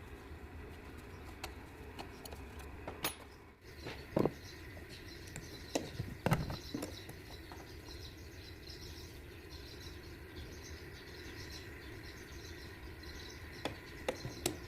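Scattered light clicks and knocks, a few at a time, over a steady low hum.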